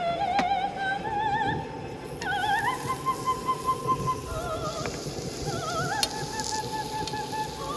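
Background music: a high voice singing operatically, with wide, even vibrato on held notes.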